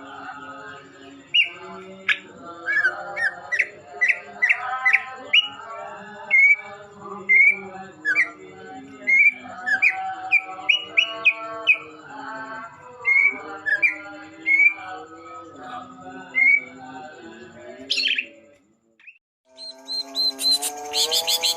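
Cucak ijo (green leafbird) chirping, short sharp notes about once a second over background music. After a brief pause near the end a faster run of rapid chirps starts.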